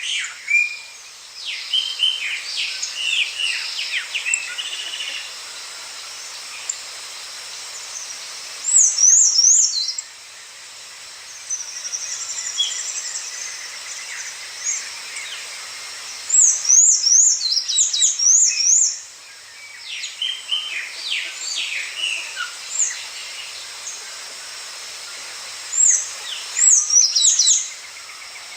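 A songbird singing outdoors: a loud phrase of rapid up-and-down high notes about every nine seconds, with shorter chirps and calls between.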